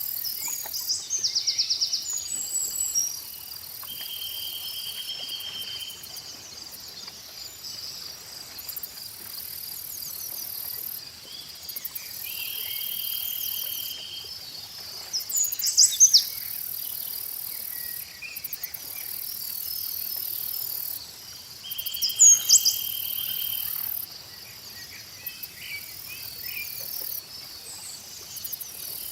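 Steady chorus of crickets and other insects chirring, with higher insect buzzing that comes and goes. Bird chirps break in three times: about a second in, about halfway through and around two-thirds of the way through, each briefly the loudest sound.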